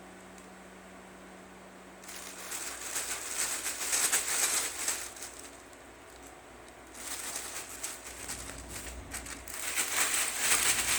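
Rustling, crinkling noise in two bouts: one from about two seconds in to about five and a half, and a second from about seven seconds in, loudest near the end.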